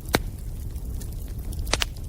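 Wood bonfire burning: a steady low noise of the flames with sharp crackling pops, one just after the start and two close together near the end.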